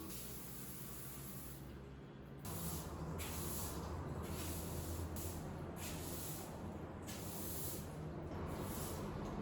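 Bathroom cleaning: rhythmic hissing strokes about once a second, over a steady low hum that comes in a couple of seconds in.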